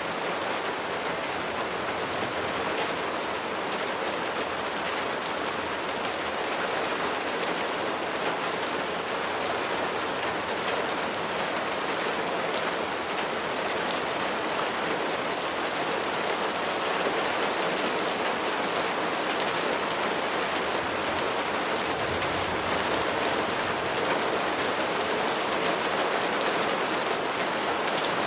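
Steady rain falling: separate drops ticking over an even hiss.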